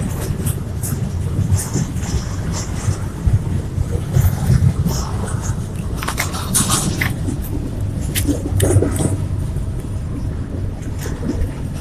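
Freight train rolling past: a steady low rumble from the wagons with scattered sharp metallic clicks and squeals from the wheels on the rails, the squeals strongest about six seconds in.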